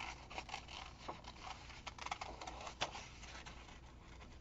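Small scissors snipping through thin paper, with the paper rustling in the hand: a faint, irregular run of small clicks and scratches.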